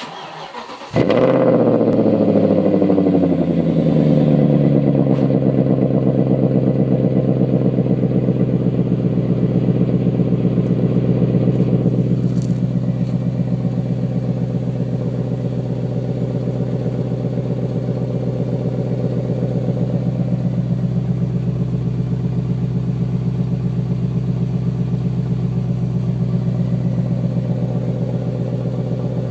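BMW 540i's 4.4-litre V8 breathing through a Schmiedmann aftermarket exhaust, starting up: a brief crank, then it fires about a second in with a flare of revs and settles over several seconds to a steady idle.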